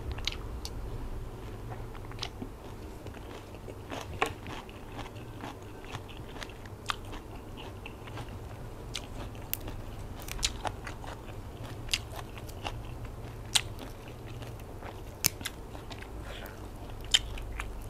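Close-up chewing of a mouthful of silkworm-pupae salad with sour mango, with scattered crisp crunches and mouth clicks. A low steady hum runs underneath.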